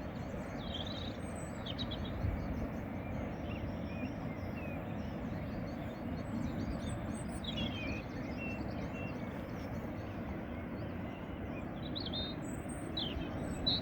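Steady wash of sea surf, with small birds chirping and trilling over it throughout.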